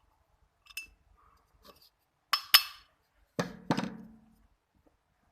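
Small metal parts of an air rifle's trigger assembly clinking as the trigger pin is fitted back in: a few faint clicks, then two sharp metallic clicks about two and a half seconds in, and two duller knocks with a short ring about a second later.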